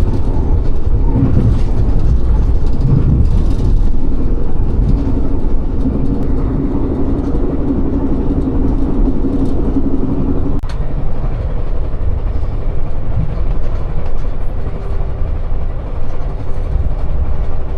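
Passenger train running, heard from inside the carriage: a steady low rumble with a hum that cuts off at a sharp click about ten seconds in.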